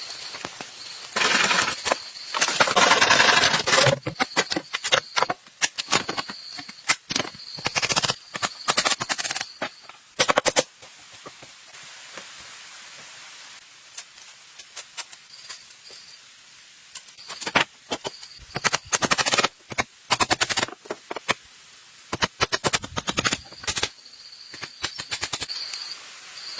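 Bamboo being cut and worked with hand tools: runs of quick sharp knocks and cracks, with longer rasping stretches a couple of seconds in, around the middle and again near the end. A thin high whine comes and goes in the background.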